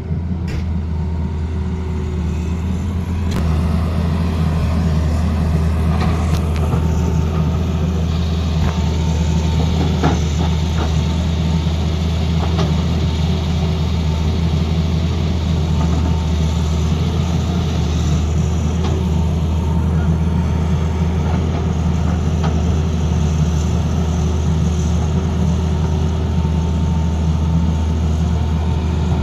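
Tata Hitachi excavator's diesel engine running steadily under load, a deep drone, with a few short knocks in the first ten seconds.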